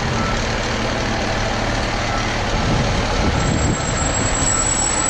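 Fire truck engine running loudly during a ride, with a steady heavy noise and a swell of low rumble about halfway through. A faint short beep repeats over it.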